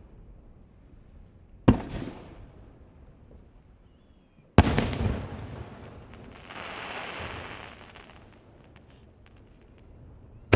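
Aerial fireworks shells bursting: two loud booms about three seconds apart, each echoing away, then a hiss lasting about two seconds, and another boom at the very end.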